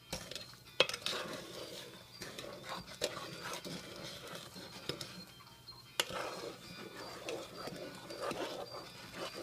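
Wooden spoon stirring butter, sugar, milk and cocoa in a pan, a continuous scraping with a few sharp knocks of the spoon against the pan.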